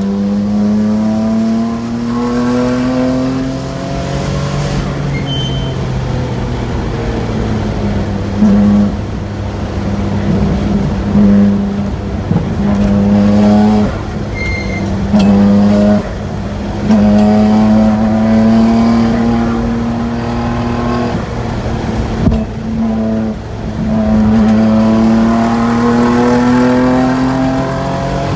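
Exhaust note of a Nissan RB26DETT twin-turbo straight-six through an EXPREME Ti titanium muffler, loud and steady. The pitch climbs slowly several times as the engine pulls under acceleration, with short breaks and drops in between where the throttle closes or gears change.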